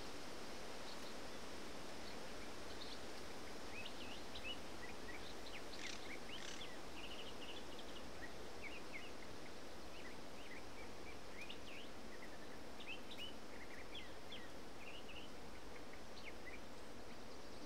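Small birds chirping, many short quick calls scattered throughout, over a steady hiss of open-air background.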